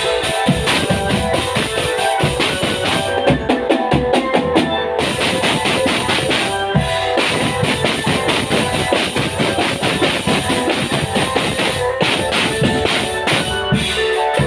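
Marching drumband playing: dense, rapid snare and bass drum strokes under a sustained melody line.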